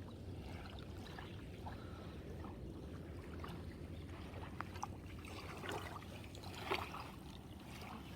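Faint water sounds of a paddle dipping and splashing, with a few small splashes about four and a half, five and a half and seven seconds in, over a low steady rumble.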